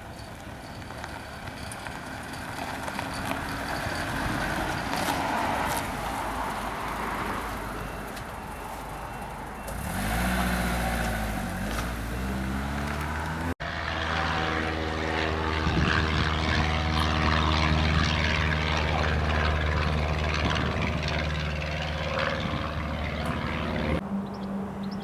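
Engines running in several short cut-together clips. Hiss-like noise comes first. An engine note then rises and falls in pitch for a few seconds, followed by a steady low engine running for about ten seconds.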